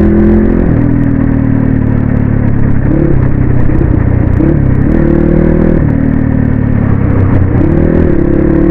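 Crossfire XM 250 dirt bike's single-cylinder engine running under way with a steady rush of wind. The engine note drops about a second in, climbs again mid-way, dips once more and rises steadily near the end as the rider changes throttle and gears.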